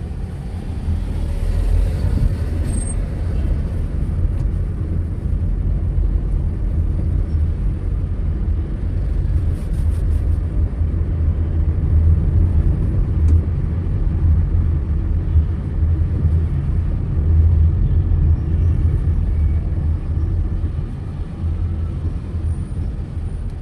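Steady low rumble of a car driving along a city road, engine and road noise, rising and falling a little without any sharp events.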